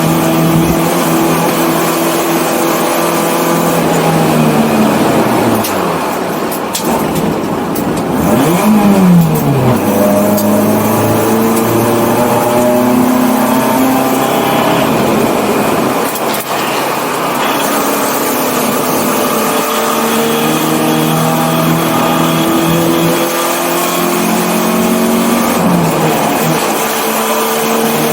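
1984 BMW 318i race car engine heard onboard at racing speed. The engine note climbs and drops again and again as it accelerates, shifts gears and slows for corners, with a sharp fall and rise in revs about nine seconds in.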